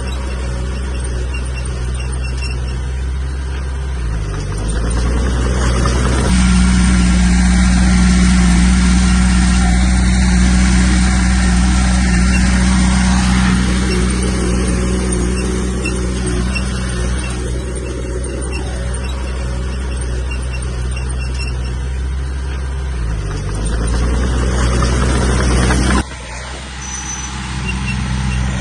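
Heavy diesel engines of a bulldozer and dump trucks at work, running steadily, with the engine pitch dipping and climbing back twice. The sound changes abruptly about six seconds in and again near the end.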